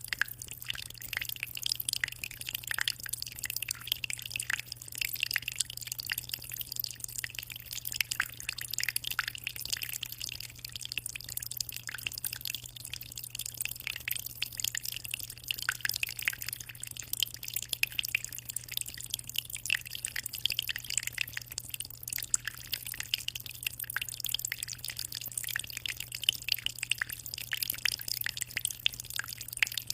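Aquarium water trickling and splashing in a continuous stream of small drips, over a steady low hum.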